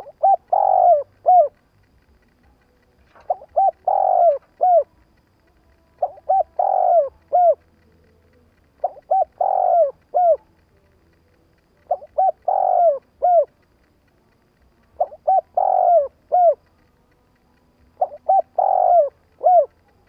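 Spotted dove cooing: seven repeated phrases about every three seconds, each a quick run of short coos, a longer coo, and a final short coo.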